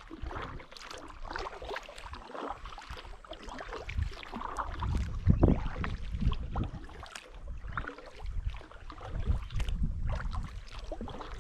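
Kayak paddling on a river: paddle blades dipping and splashing, with water dripping and irregular small knocks.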